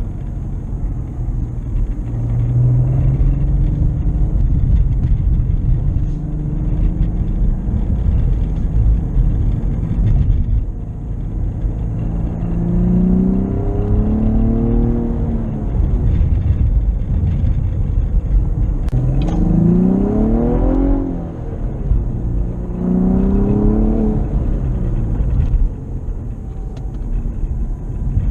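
2016 Cadillac ATS-V's twin-turbo V6 heard from inside the car: a steady cruising drone with road rumble, then three pulls where the engine's pitch climbs and drops back at a gear change, about twelve, nineteen and twenty-three seconds in.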